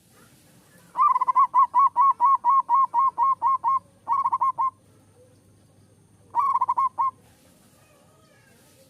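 Zebra dove (perkutut) singing: a run of about a dozen quick staccato cooing notes, then two shorter, faster bursts of notes.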